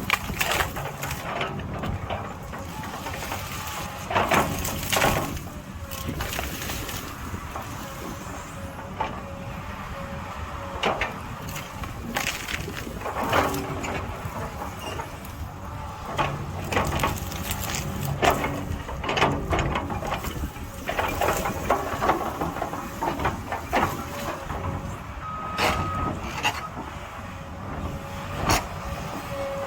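Excavator running under load, its engine and hydraulics steady, with irregular clanks and scrapes as the bucket digs into rock.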